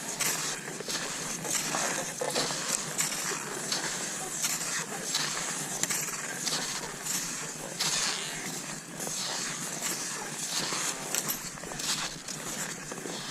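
Cross-country skis sliding and crunching over snow in a steady striding rhythm, a repeated swish-and-crunch about once a second.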